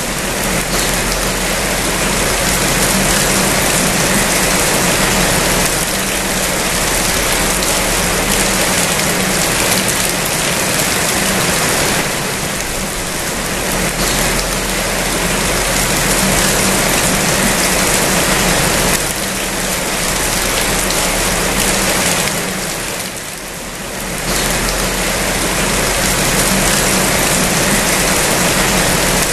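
Steady heavy rainfall, a dense, even hiss that briefly eases a few times before picking up again.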